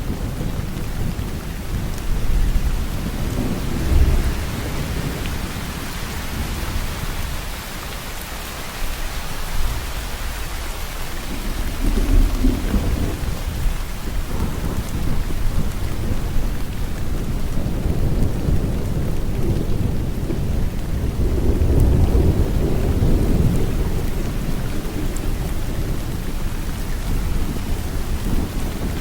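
Steady heavy rain falling, with deep rolling thunder rumbling under it that swells several times: about four seconds in, around twelve seconds, and again for a few seconds past the twenty-second mark.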